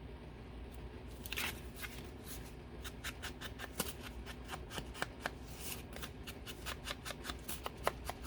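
Scissors snipping paper: after a quiet first second, a string of small sharp snips a few per second, with some paper rustling between them.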